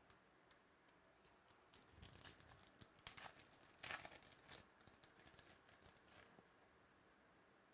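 Faint rustling, crinkling and light clicks as trading cards and their packaging are handled. The sounds come in a cluster from about two seconds in until past six seconds.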